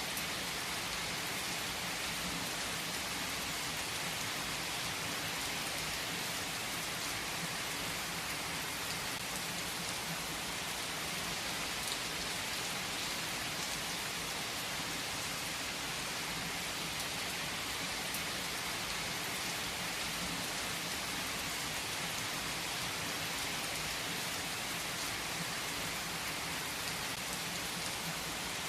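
Steady rain falling hard, a dense, even hiss of drops with a few sharper drop ticks here and there.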